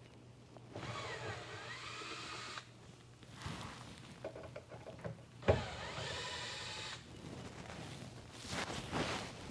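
A small power tool's motor whining in two short runs of about two seconds each, its pitch wavering. A sharp knock starts the second run.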